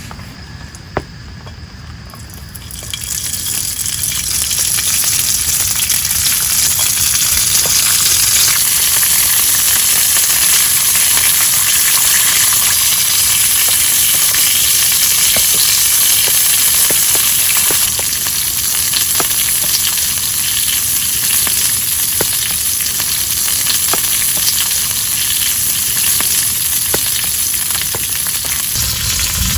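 Food frying in hot oil in a pan: a loud sizzle sets in suddenly about three seconds in and carries on, with scattered pops from the oil.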